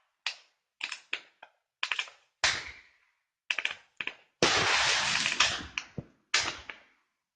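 Linked multi-shot firework set firing: a string of sharp bangs with crackling tails, broken by short silences, and a longer run of dense crackling about four and a half seconds in.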